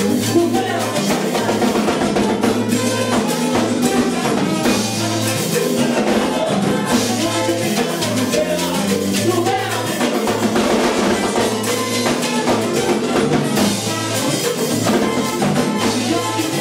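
Live salsa band playing an instrumental passage, with drum kit, Latin percussion and a bass line driving a steady beat.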